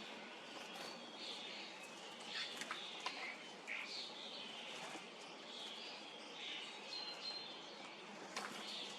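Common starlings chirping and calling in short, scattered chirps and whistles, with a few sharp clicks among them.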